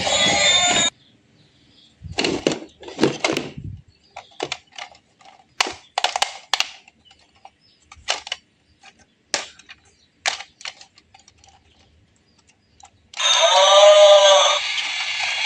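Music cuts off, followed by a run of irregular light clicks and knocks of small hard objects. About two seconds before the end, a loud electronic warbling sound starts.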